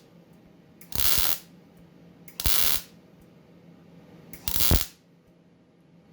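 Sherman 200M MIG welder with 0.8 mm wire striking short arcs on thin metal: three crackling bursts of about half a second each, about a second and a half apart, as tack welds or stitch welds are laid down.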